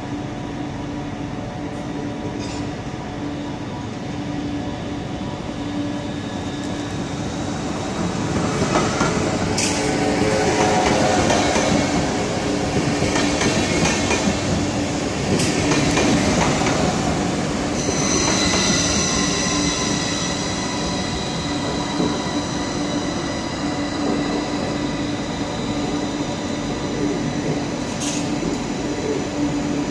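SBB double-deck S-Bahn train running along the platform track, growing louder as it comes close and its coaches pass by, with a few sharp clicks. From about eighteen seconds in, high steady whining tones join a steady low hum.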